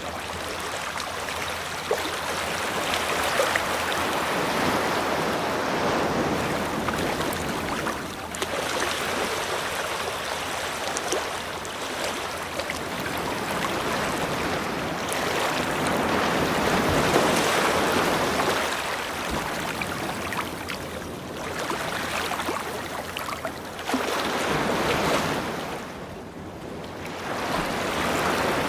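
Ocean waves breaking and washing on a beach, a steady rush that swells and eases every few seconds.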